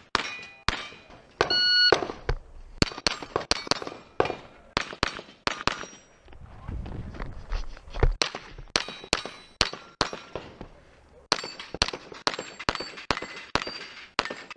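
Semi-automatic SIG MPX 9mm carbine firing quick strings of shots at steel targets, many hits followed by the ring of struck steel plates. The firing pauses for a couple of seconds in the middle, then picks up again at about three shots a second.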